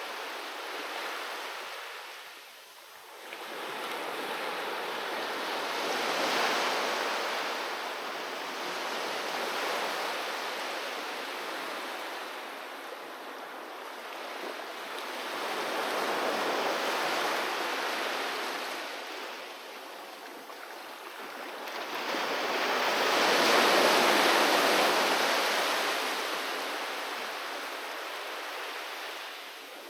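Sea waves breaking and washing up on a beach, swelling and fading in slow surges several seconds apart, the loudest wave about three-quarters of the way through.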